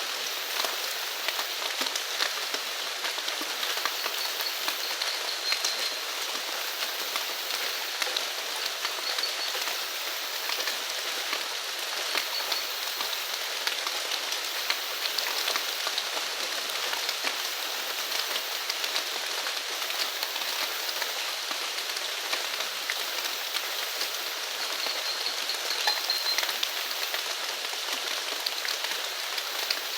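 Steady rain falling, a dense patter of many fine drops, with a faint high chirping a few times.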